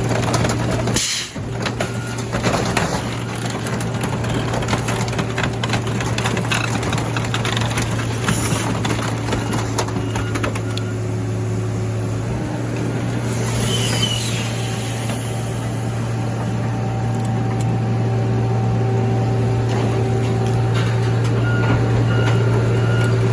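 Car crusher running steadily with a constant low hum, while crushing a 1991 Ford pickup, with scattered metal clicks and creaks and a brief squeal about fourteen seconds in.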